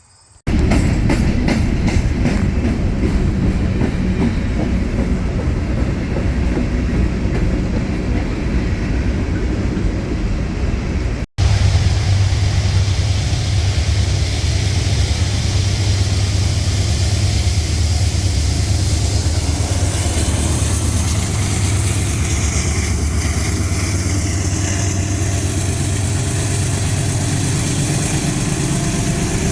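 A freight train passing on the Norfolk Southern main line, rolling steadily, with a deep low rumble. The sound breaks off for an instant about eleven seconds in and then carries on.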